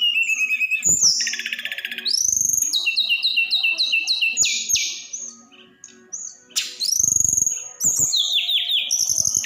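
A tledekan gunung songbird singing loudly in rapid, repeated series of high, sharply slurred whistled notes, trills and chips, with short pauses between the phrases. A few low thumps are heard underneath.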